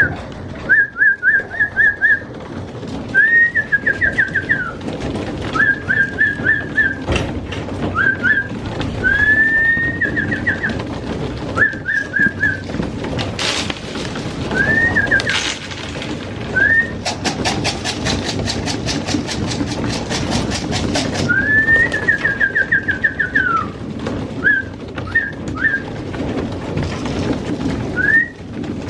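A flock of racing pigeons feeding: low cooing throughout, with short high whistled call phrases repeated every second or two and a burst of fast, even clicking about two-thirds of the way through.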